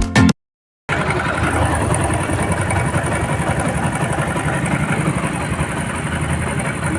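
Bajaj CT 100 motorcycle's single-cylinder four-stroke engine idling steadily, starting after a brief silence about a second in.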